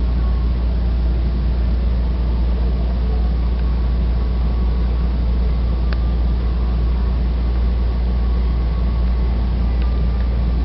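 Large power-plant engine running steadily with a loud, deep drone, on its first test run.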